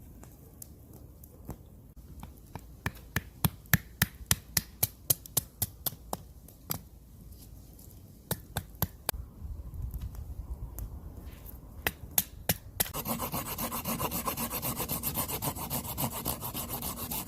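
Wood being carved by hand: sharp knife strokes snapping through the wood, a few clicks a second. About thirteen seconds in, a fast, steady back-and-forth scraping of a tool across the wood starts and keeps going.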